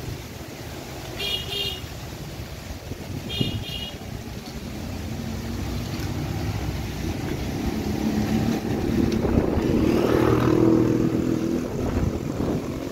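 A motor engine growing louder over several seconds, loudest near the end, then easing off, over wind buffeting the microphone. Two brief high chirps sound in the first few seconds.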